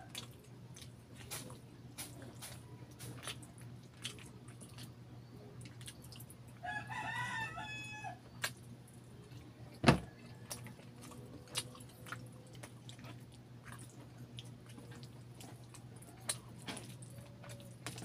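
Close-miked chewing and wet mouth clicks from eating saucy chicken and rice by hand, with a rooster crowing once in the background for about a second and a half near the middle. One sharp click stands out loudest a little past the middle, over a steady low hum.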